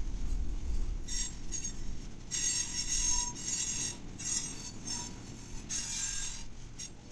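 Freight train cars rolling past with a low rumble, under several bursts of high-pitched metallic squealing and clinking from the wheels and cars, starting about a second in.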